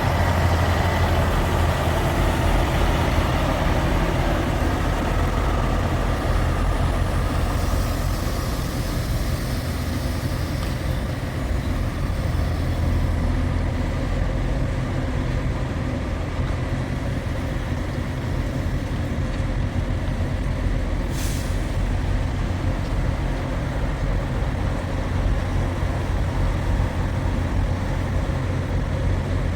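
Truck engine running steadily with road noise, heard from inside the cab while driving, with a brief hiss about 21 seconds in.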